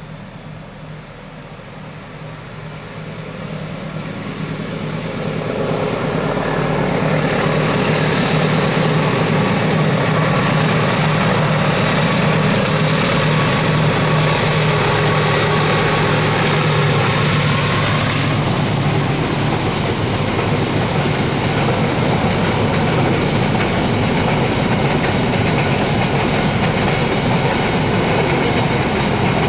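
Diesel-electric locomotive and passenger coaches passing on the track, the engine hum and wheel-on-rail noise building over the first several seconds. A loud hiss from the wheels and rails peaks as the train passes closest, then eases about two-thirds of the way through while the coaches run on.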